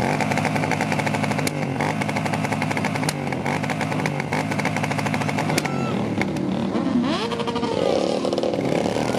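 Cruiser motorcycle engine revving hard on the spot, held at steady high revs for about five seconds, then dropping and blipped up again near the end.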